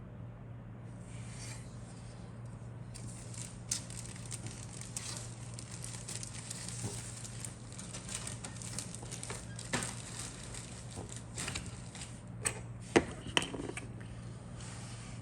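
Plastic packaging crinkling and rustling as it is handled, with a few sharp clicks about 12 to 13 seconds in, over a steady low hum.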